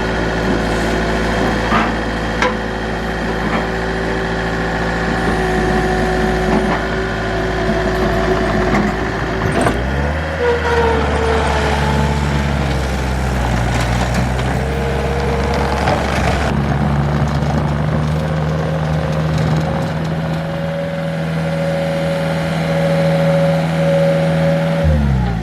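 An engine running steadily, speeding up about ten seconds in and holding the higher speed until it slows near the end.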